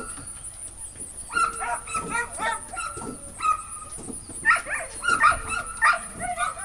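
A dog whining and yelping in short, repeated, high-pitched bursts, several times over.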